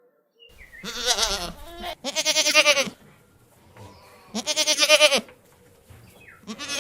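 Goat bleating: three quavering bleats of about a second each, with a fourth starting near the end.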